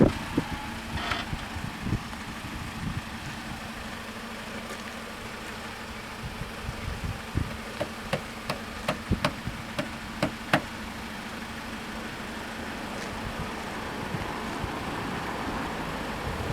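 A vehicle engine idling with a steady low hum, and a quick run of sharp clicks about halfway through.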